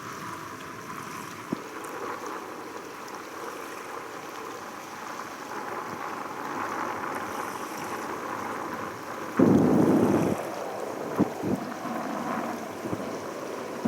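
Distant, steady jet-engine roar of a landing Airbus A320, with wind on the microphone. A loud gust of wind noise comes about nine and a half seconds in, followed by a few sharp knocks.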